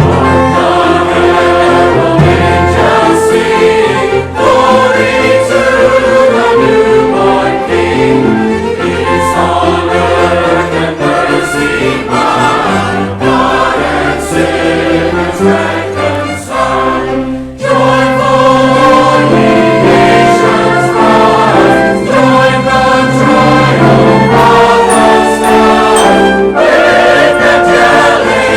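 Church choir singing a medley of familiar Christmas carols with orchestra accompaniment; the congregation has been invited to sing along.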